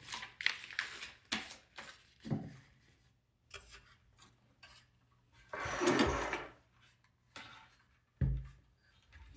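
Hands fitting small plastic robot parts and motors together: scattered clicks and taps, a scraping rub about halfway through, and a dull knock near the end.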